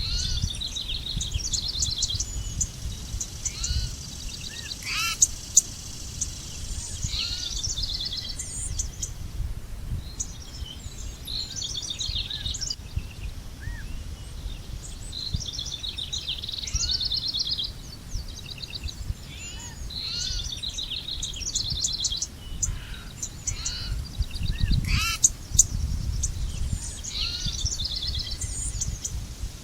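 Several wild birds singing and calling together: quick chirps, rapid trills and short whistled notes overlapping throughout, over a steady low rumble.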